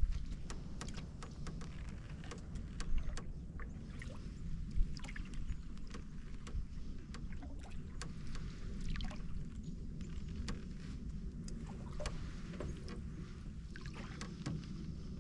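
Canoe being paddled: water swishing and dripping around the paddle and hull, with many small clicks and knocks from the paddle and the creaky canoe, one sharper knock about five seconds in.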